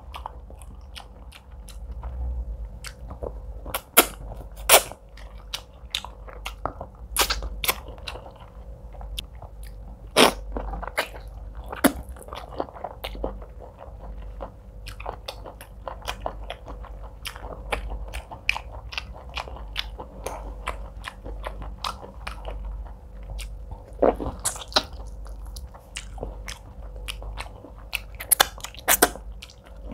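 Close-miked chewing of fufu and egusi soup eaten by hand, with irregular sharp wet mouth clicks and smacks, a few louder than the rest. A faint steady hum runs underneath.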